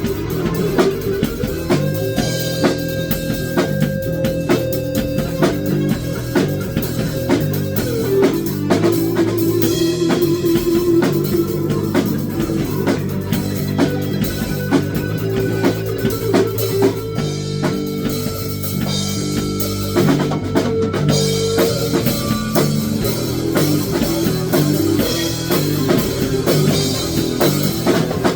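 Rock music played on drum kit and guitar, with a steady beat under a melody of long held notes.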